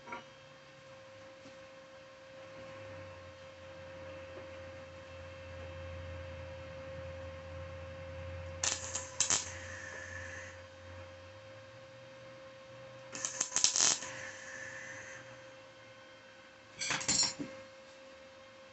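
Small metal parts clinking three times, each time a quick cluster of sharp clicks with a short metallic ring, over a steady electrical hum.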